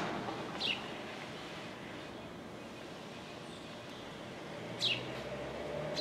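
Two short, downward-sweeping bird chirps, one just under a second in and one about five seconds in, over a steady hum of distant city noise.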